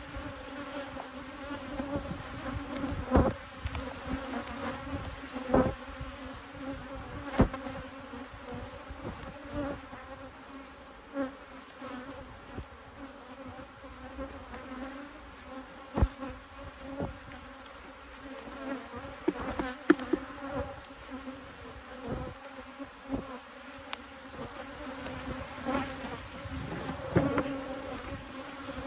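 Honey bees buzzing in a steady, pitched hum around an open, crowded hive. A handful of sharp knocks break in now and then.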